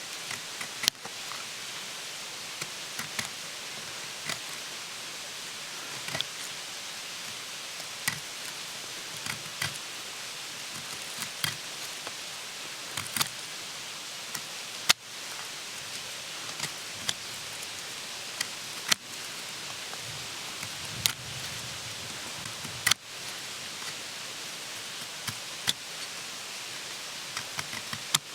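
Wood campfire crackling: a steady hiss with sharp, irregular pops every second or two, a few of them much louder.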